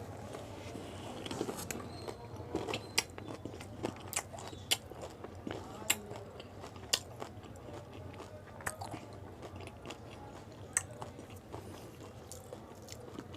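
Crunching and chewing of crisp pani puri (gol gappa) shells in the mouth, with sharp irregular crackles, most of them between about one and a half and eleven seconds in.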